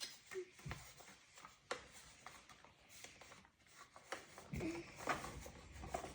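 Toy packaging being handled and opened: faint rustling of cardboard and plastic with scattered clicks and taps, growing busier about four and a half seconds in.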